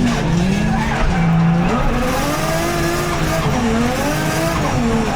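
A 550-horsepower Nissan S13 drift car's engine revving hard, its pitch rising and falling again and again as the car drifts, with its tyres skidding and screeching.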